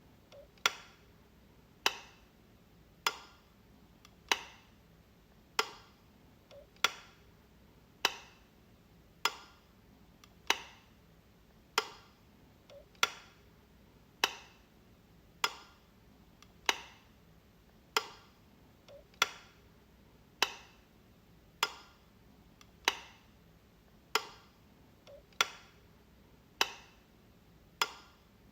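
Light switch flicked over and over, a sharp click about every second and a quarter, each with a brief ring.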